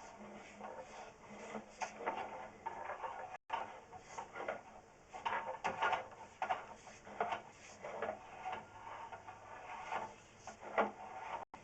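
Sewer inspection camera and its push cable scraping and rubbing irregularly against the inside of a vent pipe as it is fed down the line.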